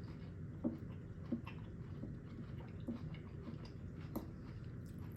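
Close-miked chewing of food, with a few short mouth clicks scattered through.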